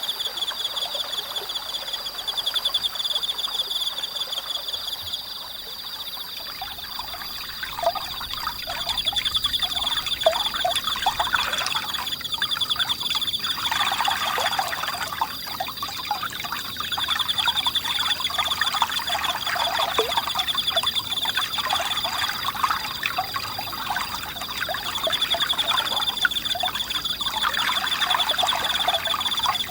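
Autumn-night insects singing in a steady high, fast-pulsing trill that fades and swells, over a small forest stream babbling and trickling, the water louder through the middle.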